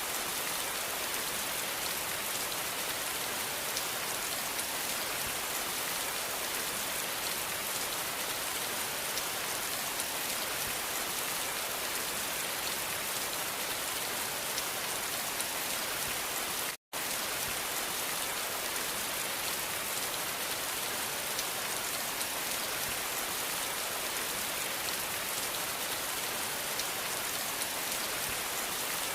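Steady rain falling, an even dense hiss with fine drop ticks. The sound cuts out completely for a split second a little past halfway, then resumes unchanged.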